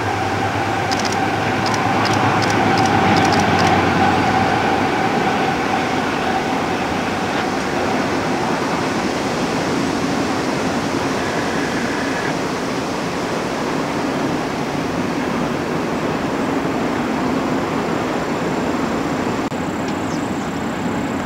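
Double-stack container cars of a Union Pacific intermodal freight train rolling across a steel trestle viaduct, a steady dense rumble of wheels on rail. A low engine drone from the departing diesel locomotives and a steady higher tone fade away over the first several seconds.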